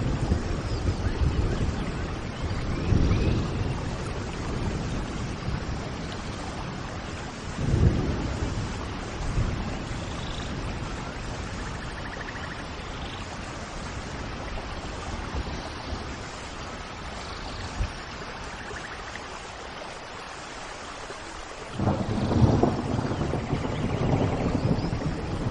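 Steady rain with rolls of thunder: one low rumble about eight seconds in, and another that starts suddenly near the end. Faint bird chirps come through here and there.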